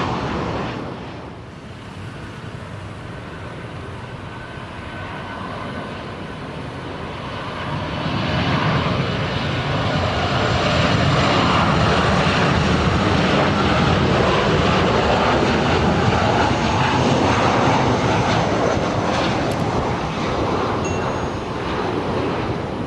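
Jet airliner engines running: the noise drops away early on, then builds up louder about eight seconds in and stays loud, with a faint turbine whine, before easing slightly near the end.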